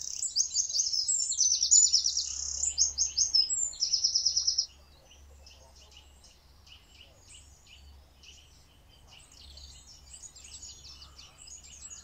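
A songbird singing: a loud, fast, high song of rapid notes and trills that stops abruptly a little under five seconds in, after which only faint chirping from other birds goes on.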